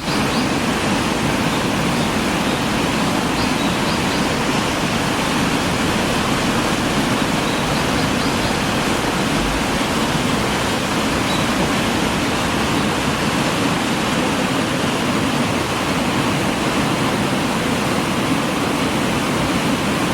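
River water streaming over rocks, a steady, unbroken rush.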